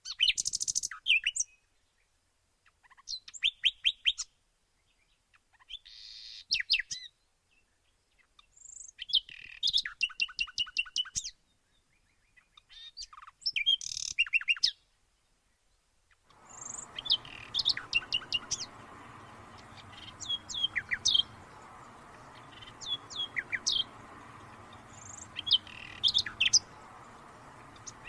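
Songbirds singing: short phrases of rapid, high chirping notes come every couple of seconds with silent gaps between them. About halfway through, a steady background hiss comes in, and separate chirps and calls continue over it.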